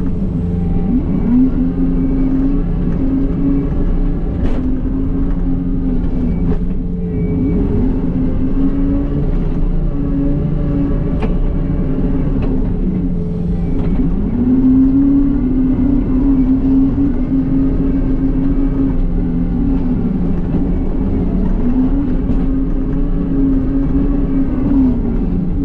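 John Deere 333E skid loader's diesel engine running under load while moving dirt, its pitch climbing and dropping several times as the revs rise and fall, with a few brief clicks and knocks.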